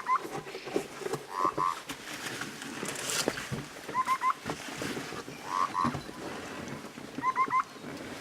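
A bird calling over and over: a phrase of three short rising notes, repeated about every three seconds and alternating with a quick pair of trilled notes.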